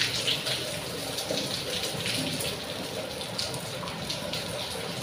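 Steady rain pouring down and splashing.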